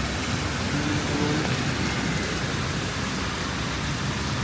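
Steady hiss of a rain-soaked city street, with a low rumble of traffic underneath.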